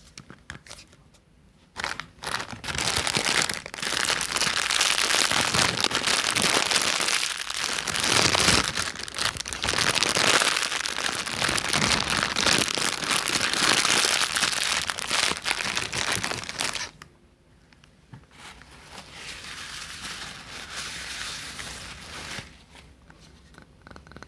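Close-up crinkling and rustling that starts about two seconds in and runs loud and dense. It drops off sharply near the two-thirds mark and comes back quieter for a few seconds.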